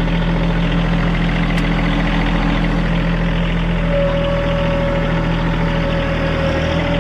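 Diesel engine of a TYM compact tractor running steadily at idle. A higher-pitched steady whine joins it about four seconds in.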